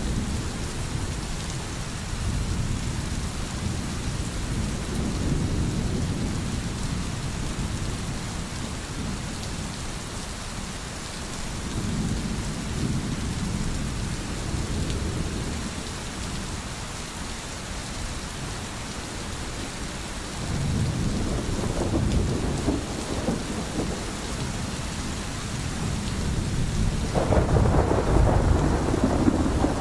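Steady heavy rain with rolling thunder rumbling in slow low swells every several seconds, the loudest rumble near the end.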